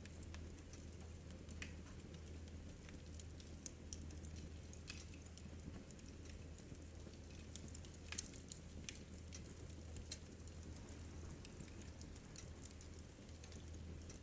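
Wood fire burning in a fireplace: quiet, irregular crackles and sharp pops over a steady low hum.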